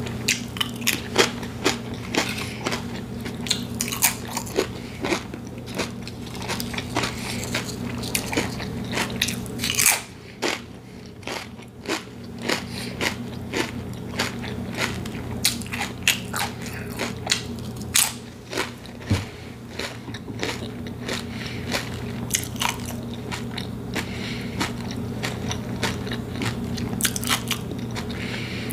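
Potato chips crunched and chewed close to the microphone: many sharp, irregular crunches in quick succession, with a short quieter pause about ten seconds in. A steady low hum runs underneath.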